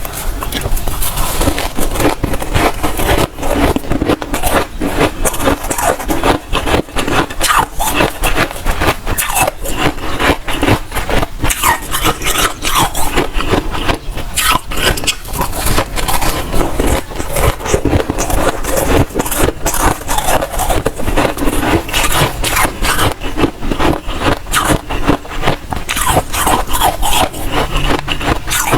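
Soft, powdery freezer frost being crunched and scraped up close: a dense, continuous run of rapid crisp crackles.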